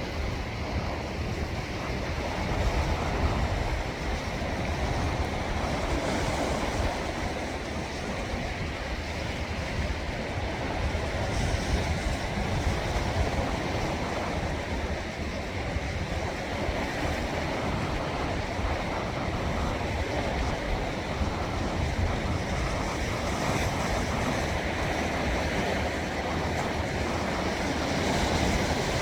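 Sea waves washing in, a continuous rushing with slow swells in level, mixed with wind buffeting the microphone as a low rumble.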